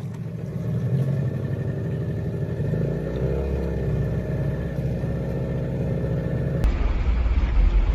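Small boat's motor running steadily, its pitch rising and falling about three seconds in. About six and a half seconds in, the sound cuts abruptly to a different, louder low rumble.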